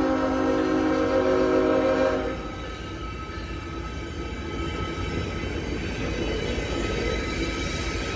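Locomotive air horn sounding a held multi-note chord that cuts off about two seconds in, followed by the steady rumble of the train rolling past.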